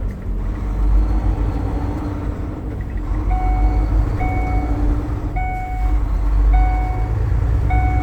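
Steady low rumble of vehicle and road noise. About three seconds in, an electronic beep starts, repeating about once a second.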